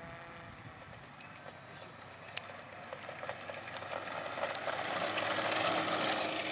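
Electric motor and propeller of a scratch-built foam RC Cessna model plane running, getting steadily louder over the last few seconds.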